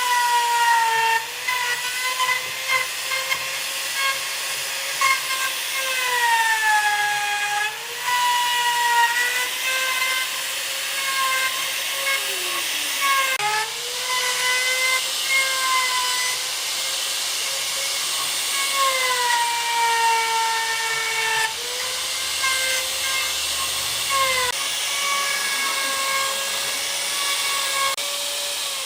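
A high-speed power tool cutting wood: a steady whine over a hiss, dipping in pitch several times as it is loaded and recovering. There are a few abrupt changes, at about 13, 21 and 24 seconds in.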